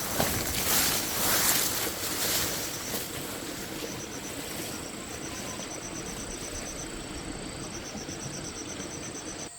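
Insects calling: short runs of rapid high-pitched pulsing trills and a steady high whine, over a noisy hiss that is louder in the first three seconds.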